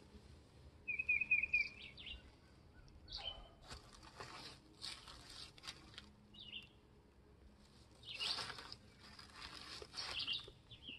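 Faint outdoor ambience with a bird's short trilled chirp about a second in and a few brief high chirps later. There are also two longer soft rushing swells, one around the middle and one near the end.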